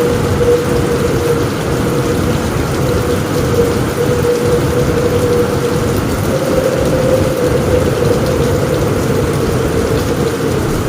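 Steady heavy rain on a roof, a dense, even patter with a deep low rumble underneath and a steady low tone running through it.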